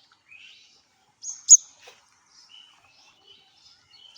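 A bird chirping: a few short, high chirps, the loudest about one and a half seconds in, followed by softer twittering.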